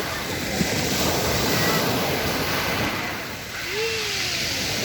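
Sea waves washing onto a pebble beach in a steady rush that swells about two seconds in and eases a little later on. A brief cry is heard near the end.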